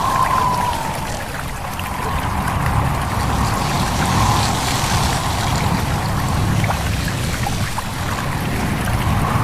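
Small stream babbling and trickling over a steady low rumble of wind, with leaves rustling.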